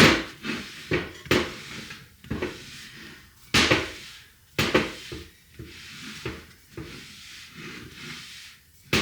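Irregular metal knocks and scraping from hands-on work on a Toyota front hub assembly while its bearings are being seated, with a few sharp clanks among softer rubbing.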